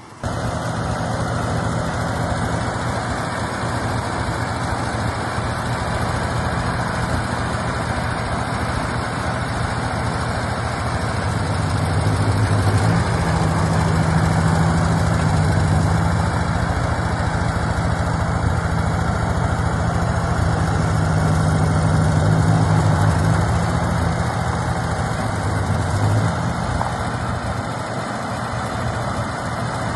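Ford 600 series tractor's gasoline four-cylinder engine running steadily. It gets louder about ten seconds in and eases back down a few seconds before the end.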